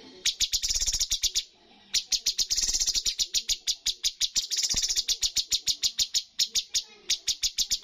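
Cucak cungkok songbird singing a rapid string of sharp, repeated chirps, about seven a second, broken by several spells of even faster trilling.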